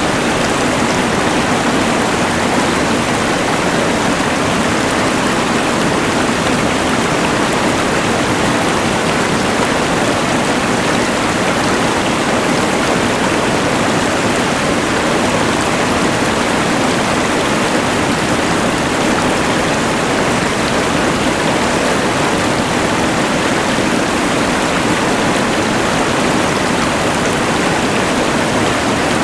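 A rushing mountain river blended with the steady hiss of a LectroFan white noise machine, an even, unbroken wash of noise that does not change.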